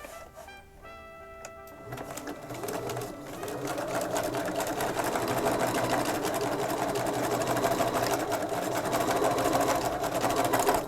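Bernina 335 domestic sewing machine stitching a seam, starting about two seconds in, picking up speed and getting louder around four seconds, then running fast and steady until it stops abruptly at the end. Background music plays before the machine starts.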